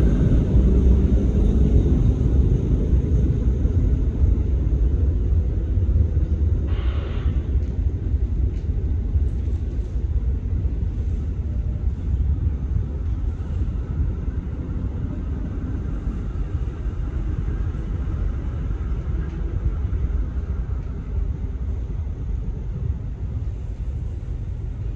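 Diesel-electric locomotive (SRT CSR class) rumbling as it pulls a train away, loudest at first and fading slowly as it moves off. A short burst of hiss comes about seven seconds in.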